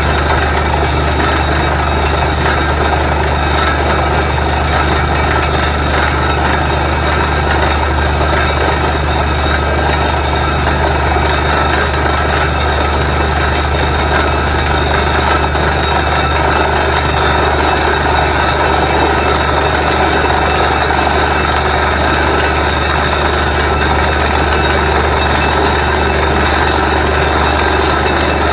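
Borewell drilling rig's engine and machinery running steadily and loudly: a constant low drone with steady higher tones over it, unchanging throughout.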